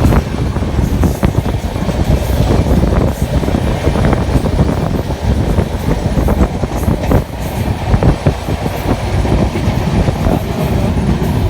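Indian Railways passenger train running, a loud steady rumble of wheels and coaches with an irregular clatter of wheels over rail joints.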